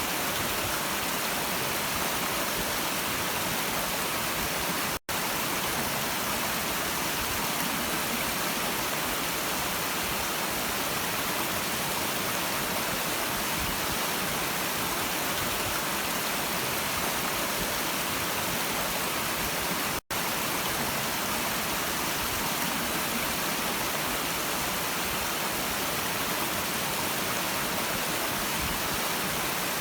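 Stream water flowing, a steady even rush with no distinct splashes. The sound cuts out for an instant twice, about five and twenty seconds in.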